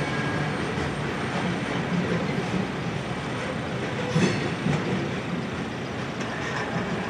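Covered hopper cars of a freight train rolling on the track: a steady rumble of steel wheels on rail, with one sharp clack about four seconds in.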